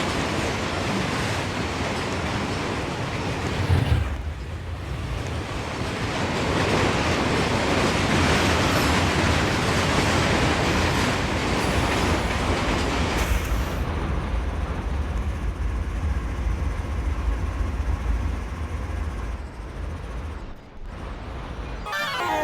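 Freight train rolling by, a steady rumble with wheel and rail noise.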